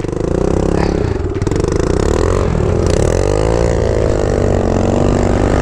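Kawasaki KLX110 dirt bike's single-cylinder four-stroke engine running close by, its pitch rising and falling as the throttle is worked.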